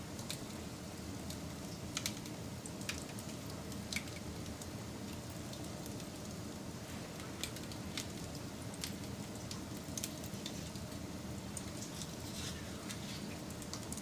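Wood campfire burning: a steady low hiss with sharp crackles and pops at irregular intervals, about one every second or two.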